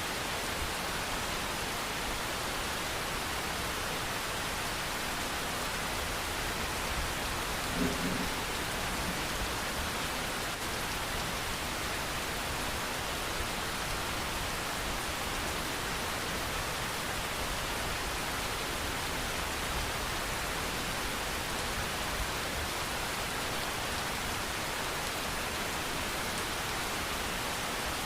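Steady rain falling, an even hiss with no break. A brief low sound stands out about eight seconds in.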